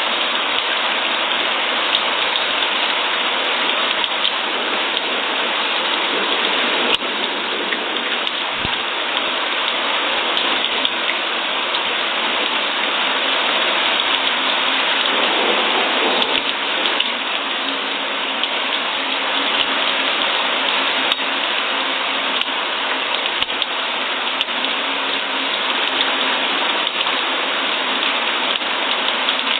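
Steady rain falling, an even dense patter of drops with occasional sharper drip clicks.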